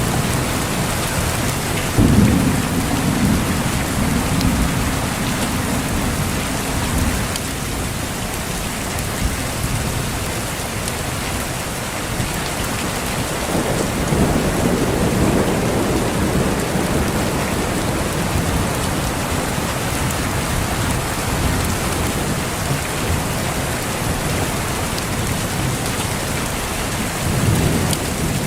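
Steady heavy rain with rolling thunder: a sharp thunderclap about two seconds in that rumbles for several seconds, a second, softer rumble near the middle, and another brief one near the end.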